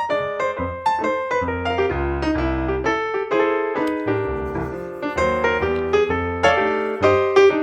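Background piano music: a steady run of notes over a low bass line.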